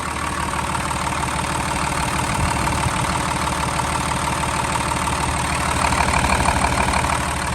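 Hino 338's diesel engine idling steadily, heard close up with the oil fill cap off for a blow-by test; the idle is even, with no puffing from the crankcase, which is taken as no blow-by.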